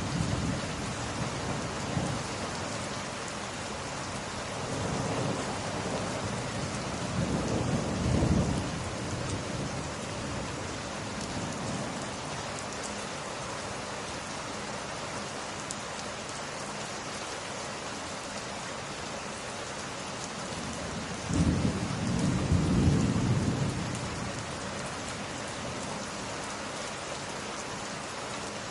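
Steady rain with low rolls of thunder: one as it begins, another building a few seconds later, and the loudest about 22 seconds in.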